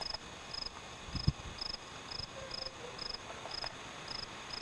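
A cricket chirping steadily, about two short high chirps a second, with a single soft low thump about a second in.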